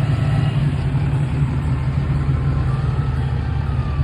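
Engines of passing cars and trucks, a steady low rumble as traffic files slowly by.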